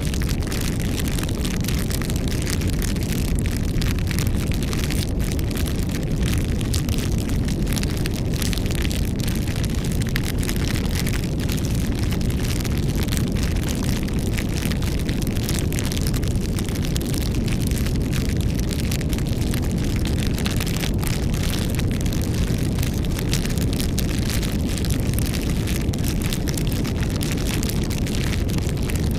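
Wood campfire burning: a steady low rumble with frequent small crackles and pops.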